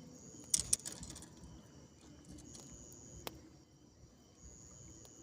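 Insects trilling steadily in high, thin tones, with a quick cluster of sharp clicks about half a second in and one more click a little after three seconds.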